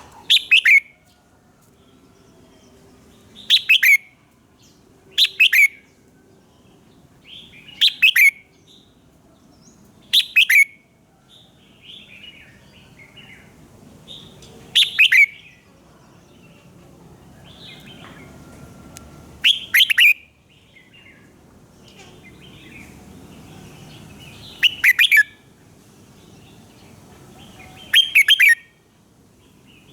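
Red-whiskered bulbul singing: short, loud, warbling song phrases about nine times, every few seconds, with softer chattering notes between them.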